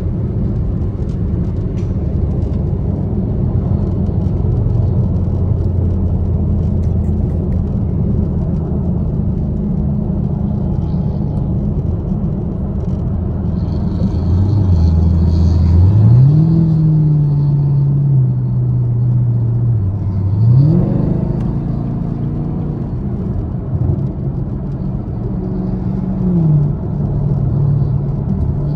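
Chevrolet Camaro SS V8 heard from inside the cabin, droning steadily at highway speed. Twice, about halfway through and again a few seconds later, the revs jump up sharply as the car accelerates, then settle back down.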